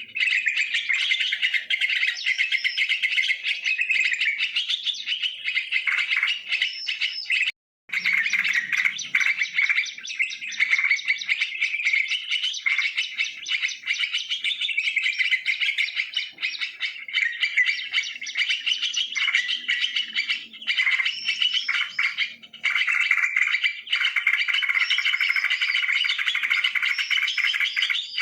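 Yellow-vented bulbuls (trucukan) calling and chattering in a dense, unbroken stream of quick bubbly notes, cut by a brief silent gap about eight seconds in.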